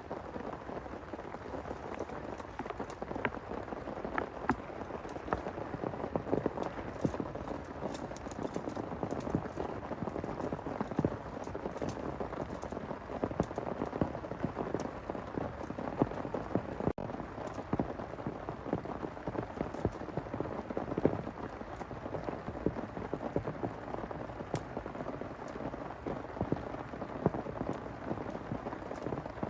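Heavy rain falling steadily, with many individual drops striking close by as sharp ticks over a dense hiss. The sound drops out for an instant about halfway through.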